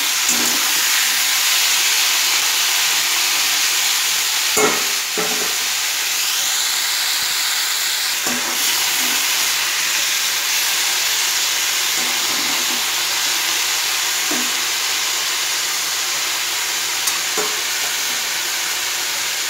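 Prawns sizzling steadily in hot oil in a metal kadai, stirred with a metal spatula that knocks and scrapes against the pan a handful of times.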